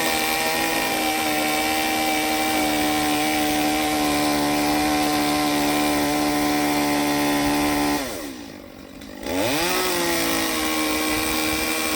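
Chainsaw engine held at full throttle at a steady high pitch. About eight seconds in the throttle is released and the engine note drops, then it revs straight back up and holds again before dropping off at the end.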